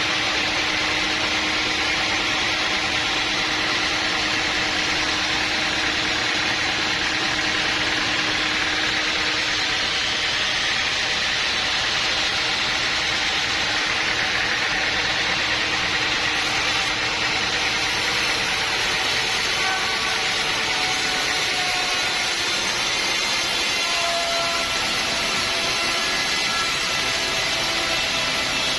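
Sawmill machinery running steadily. About eighteen seconds in, its tone shifts: one low hum drops out and higher tones come in.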